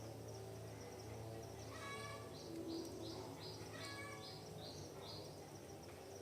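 Forest birds calling: a run of about seven short, high notes in quick succession, with a lower call of several pitches repeated twice, over a steady low hum.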